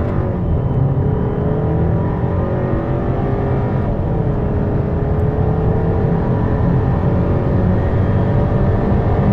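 Turbocharged 2.0-litre four-cylinder car engine accelerating hard, its pitch climbing steadily and dropping at upshifts near the start and about four seconds in.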